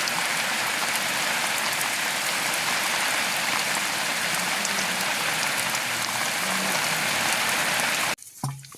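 Steady rain falling, a dense even hiss that cuts off abruptly near the end.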